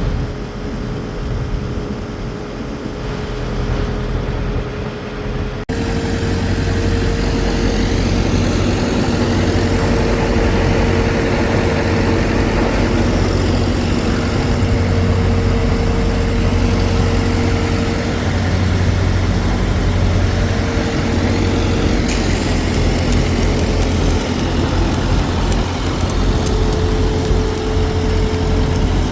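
A heavy engine running steadily with a constant hum. About six seconds in the sound jumps abruptly louder and then carries on steadily.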